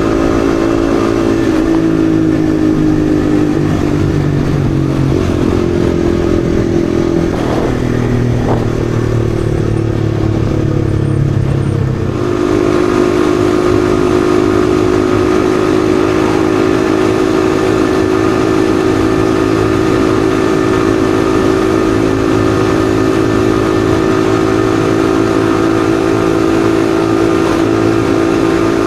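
Yamaha XSR155's single-cylinder engine under way on the road. The engine note falls in the first couple of seconds and holds lower for several seconds, then rises about twelve seconds in and stays steady at cruising speed.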